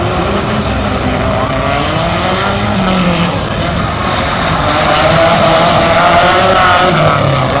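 Rally car engine revving hard, its pitch rising and falling again and again as it is driven around a tight course, getting a little louder from about halfway through.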